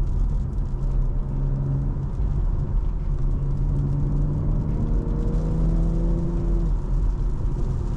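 Stage 2 tuned BMW M340i's turbocharged inline-six pulling along a wet road, its pitch climbing steadily through the middle and dropping back near the end, over a steady hiss of tyres on wet pavement.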